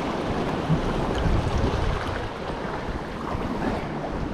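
Sea swell surging and washing, with wind buffeting the microphone in a low, steady rumble.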